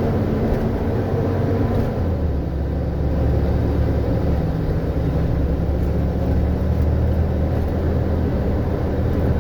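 Steady car engine and road noise heard from inside a moving car, a low hum whose pitch drops slightly about two seconds in.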